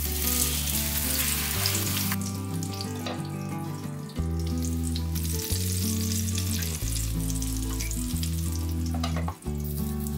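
Breaded zucchini frying in hot oil in a pan, with a steady sizzle that is loudest as the pieces go into the oil.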